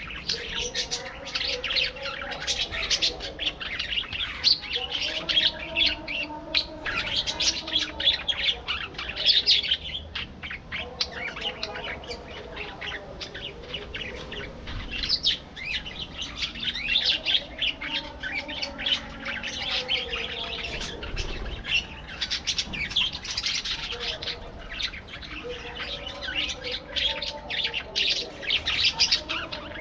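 A flock of budgerigars chattering without a break, a dense mix of many quick high chirps over lower warbling notes.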